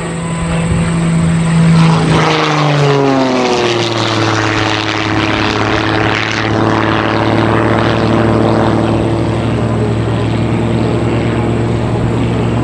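Modified Christen Eagle aerobatic biplane flying past with its piston engine and propeller, loudest about two seconds in, the pitch falling as it goes by, then a steady lower drone as it moves away.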